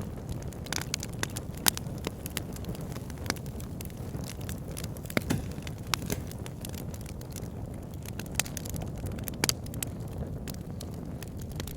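Wood fire burning in a log burner: a steady low rumble of flames with irregular crackles and sharp pops from the logs, a few pops louder than the rest.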